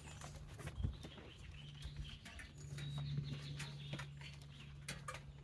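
Rake scraping and clicking through wet beach sand and small rocks in irregular strokes, over a steady low hum.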